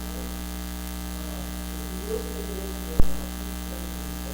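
Steady electrical mains hum in the audio feed, the fault behind the recording's bad sound. A single sharp click or pop about three seconds in.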